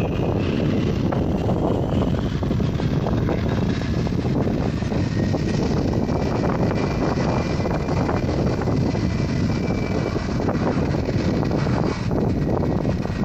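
Boeing 757-300's jet engines running, a steady loud rumble with a faint high whine.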